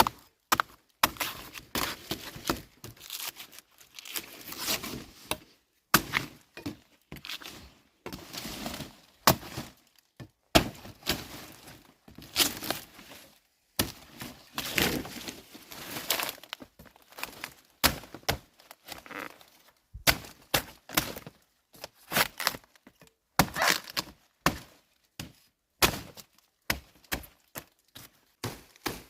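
Wood being worked by hand: irregular sharp knocks and cracks, some several to a second, with rustling between the strikes.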